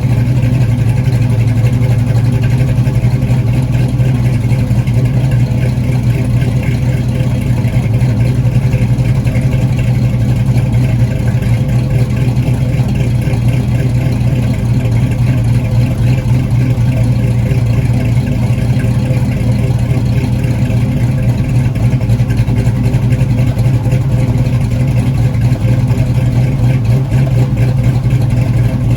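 1969 Pontiac Trans Am engine with a BTR Stage 2 aftermarket camshaft, idling steadily after a cold start.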